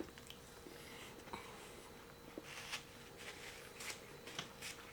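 Faint eating sounds: chewing and mouth noises with light scattered clicks and rustles, over a thin steady hum.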